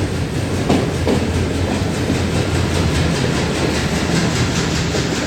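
Passenger train running, heard from inside a coach: a steady, loud rumble of wheels on the rails with clickety-clack over the rail joints, two sharper clicks about a second in.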